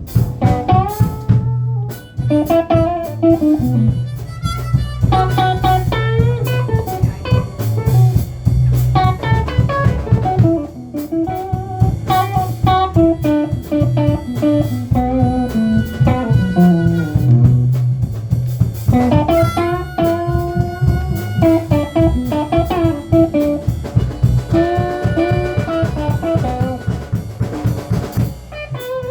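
Blues band playing an instrumental section: lead guitar with notes bending in pitch, over bass and a drum kit.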